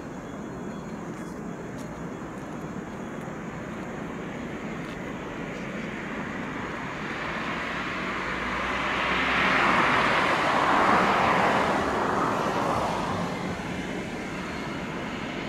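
Freight train hauled by a 3ES5K electric locomotive passing on the track: a steady rushing rolling noise that swells to its loudest about ten seconds in, then eases off.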